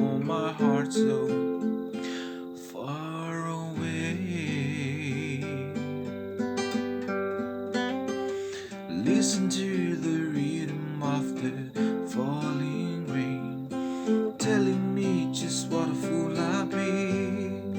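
Acoustic guitar strummed steadily, with a wavering, gliding melody line over it.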